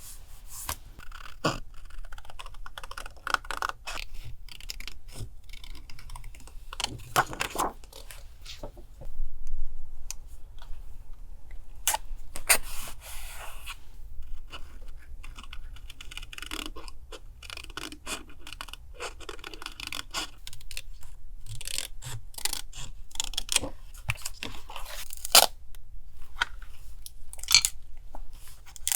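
Paper and collage materials handled on a desk: irregular rustling, crinkling and tearing of paper with scrapes and light taps, louder in several stretches.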